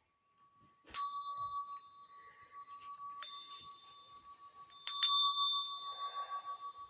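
A small bell struck three times, roughly two seconds apart, each strike ringing out in bright high overtones and fading, the third the loudest; a faint steady ringing tone sounds underneath throughout.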